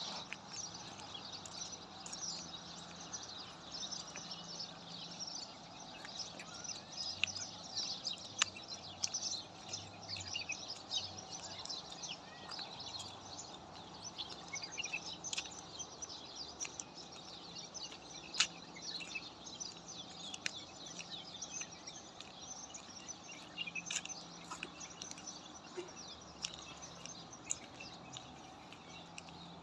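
Many small birds chirping and calling at once, a dense chorus of short, high, overlapping notes over steady background noise.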